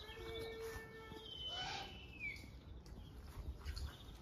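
Birds calling in an aviary: a drawn-out note in the first second, then a short high whistle that slides down in pitch about two seconds in.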